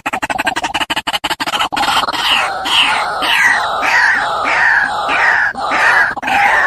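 A bird calling over and over, a string of loud short notes that each drop in pitch, repeating about twice a second, after a second or two of rapid, even pulses.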